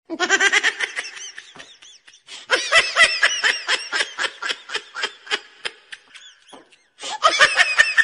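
High-pitched giggling laughter in quick pulses, coming in three bursts with short gaps, each starting abruptly out of dead silence, like a laughter sound effect added in editing.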